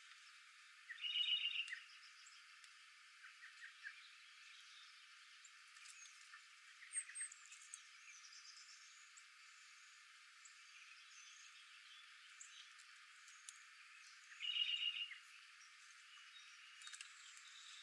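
Outdoor nature sounds: a short, fast trilled call twice, about thirteen seconds apart, with scattered faint high chirps over a quiet steady background.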